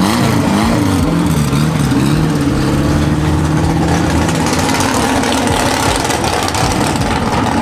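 Car engine revving: its pitch climbs in several quick steps in the first second, then wavers up and down and settles to a steady drone.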